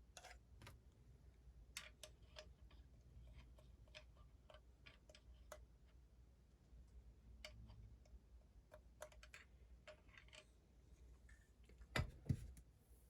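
Faint, scattered light clicks and taps of small metal engine parts being handled during the rebuild, with two louder knocks close together near the end.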